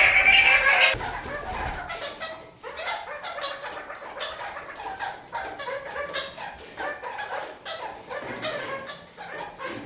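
Red-crowned kakariki (parakeets) calling and chattering: a loud run of chatter in the first second, then a steady stream of quieter short chirps and clicks.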